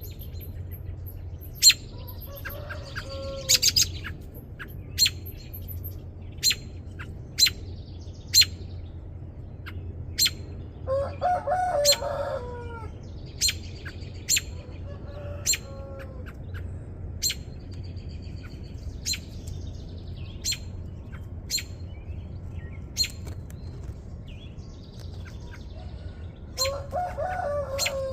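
Adult American robins giving sharp chirps, repeated every second or two. Chickens cluck a few times in the background, a short run of calls about 3 seconds in, around 11 to 12 seconds, and again near the end.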